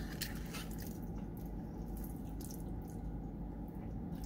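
A person chewing a mouthful of chili cheese fries, with small mouth clicks scattered through, over a steady low hum.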